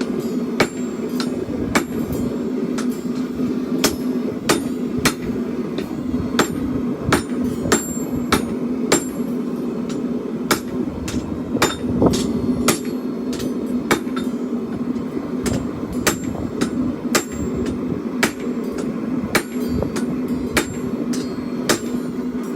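Hand hammer forging a steel chopper blade on an anvil: sharp ringing blows, a little over one a second at an uneven pace, over a steady low hum.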